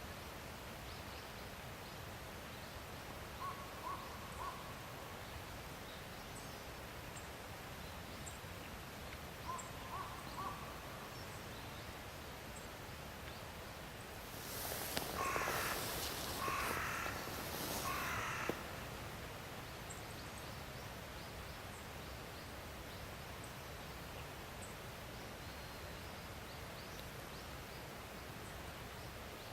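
Three loud, harsh bird calls about a second and a half apart near the middle, over a steady outdoor hiss, with a few faint short bird notes earlier.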